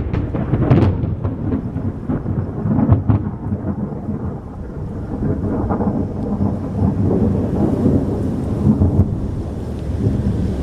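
Rolling thunder in a strong thunderstorm: sharp crackles in the first second and again about three seconds in, then a long low rumble, with rain falling.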